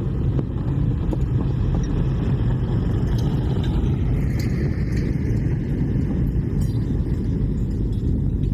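A steady low rumble that holds at the same level throughout, with no clear pitch or rhythm.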